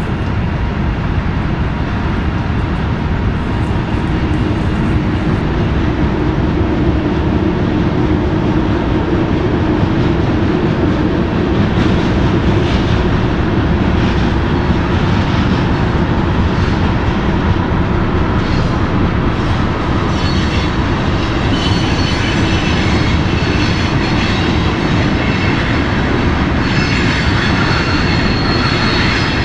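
BNSF freight train of diesel locomotives and loaded grain hopper cars rolling along the track, a steady running noise throughout. Thin high squealing tones, typical of wheels squealing, join in about two-thirds of the way through.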